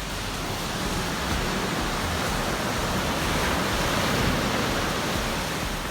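Sea surf: a wave breaking and washing up the sand, the rush swelling to a peak about four seconds in and then easing.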